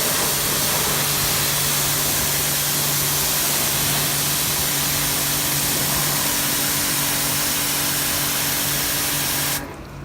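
Pressure washer running, its jet spraying onto a rider's Gore-Tex motorcycle suit: a loud, steady hiss over a steady machine hum. It cuts off suddenly near the end.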